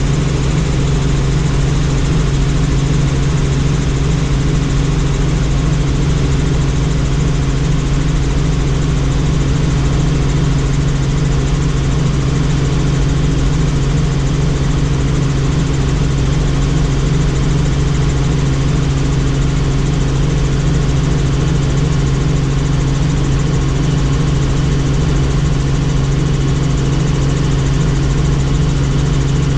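Helicopter engine and rotor running steadily: a loud, constant low hum with a noisy rush above it.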